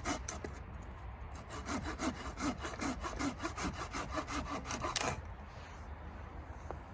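Hand saw cutting through wood in quick, even strokes, stopping about five seconds in.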